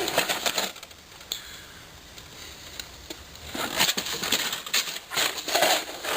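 Packaging rustling and crinkling as parts are handled and pulled from a shipping box. There is a quieter stretch in the middle, then busier crackling from about three and a half seconds in.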